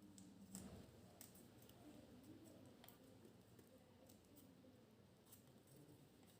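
Faint crackles and small clicks of a sheet of origami paper being handled, folded and creased by hand.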